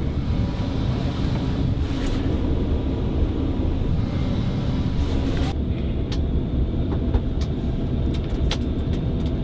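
Steady low rumble of a private jet's cabin with the engines running. A high hiss on top cuts off suddenly about five and a half seconds in, and a few light clicks follow.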